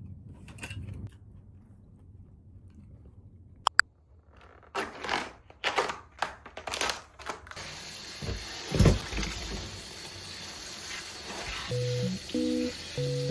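Two sharp clicks, then a run of rustling, clattering handling noises and a low thump. Light plucked-guitar background music begins near the end.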